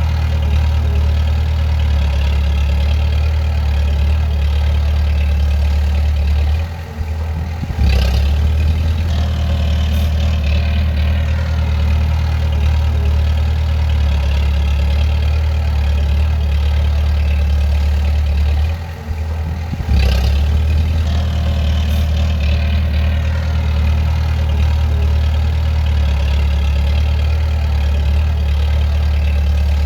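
Bulldozer diesel engine running steadily with a deep drone. It drops briefly twice, and each time a sharp clank comes as it picks up again, with fainter clicks a couple of seconds later.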